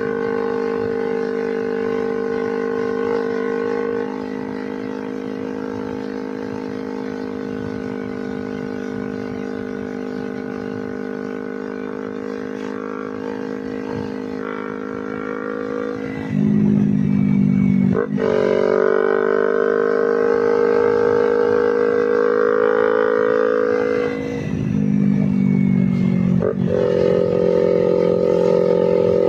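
Kawasaki Ninja 250 FI's four-stroke parallel-twin engine running through a Termignoni slip-on silencer while ridden. It starts at a steady note, then gets louder with a lower, stronger note about halfway, and the sound briefly cuts out twice later on.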